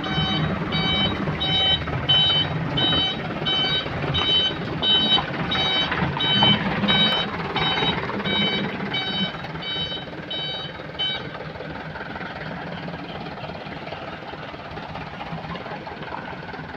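Heavy machinery's reversing alarm beeping steadily, about three beeps a second, over a running diesel engine; the beeping stops about eleven seconds in and the engine keeps running.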